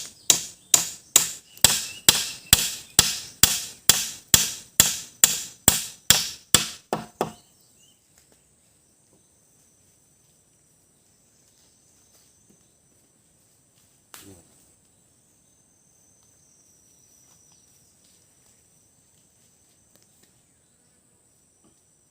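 A hand tool strikes wood in a quick, even rhythm of about two to three blows a second, stopping about seven seconds in. One more blow comes about halfway through. A steady high insect drone runs underneath.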